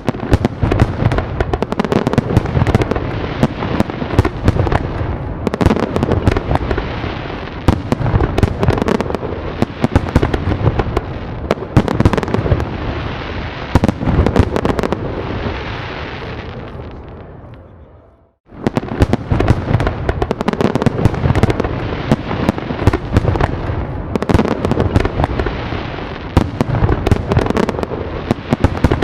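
Fireworks going off in a dense barrage of bangs and crackling bursts. The barrage fades out about eighteen seconds in, drops to silence for a moment, then starts again abruptly.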